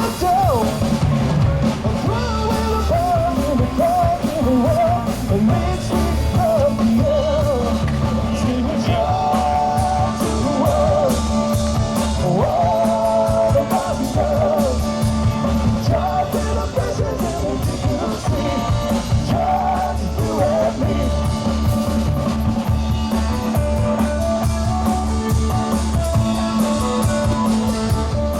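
Rock music: a singing voice over drums and guitar, the voice dropping out about three quarters of the way through while the band plays on.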